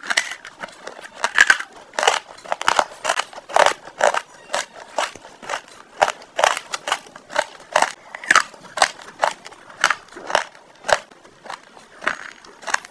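Close-miked crunchy chewing: a mouth biting and crushing crisp food, giving a run of sharp crackling crunches about two or three a second.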